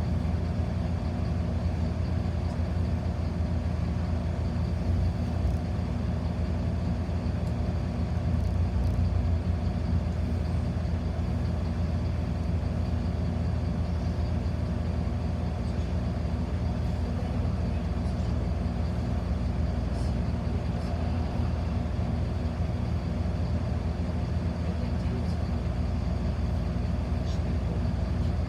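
Steady low rumble of a city bus's engine and running gear heard from inside the passenger cabin, with a constant hum and no change in pitch.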